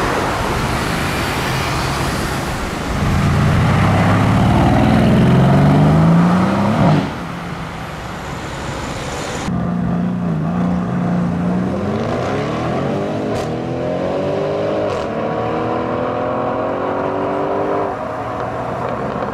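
Mercedes-AMG C63 S 4.0-litre twin-turbo V8 accelerating hard, the revs climbing before cutting off abruptly about seven seconds in. Later it idles, then launches with the revs rising, dropping once at a gear change and climbing again.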